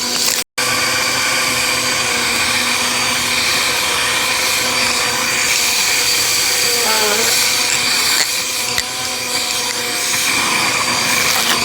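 Bissell vacuum cleaner running steadily, a constant motor whine over airflow noise, with a brief full cut-out about half a second in.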